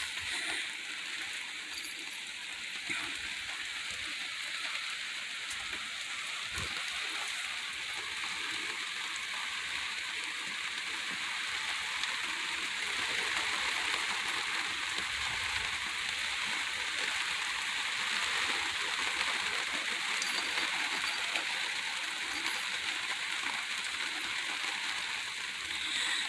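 Steady, soaking rain falling: an even hiss that swells slightly in the middle.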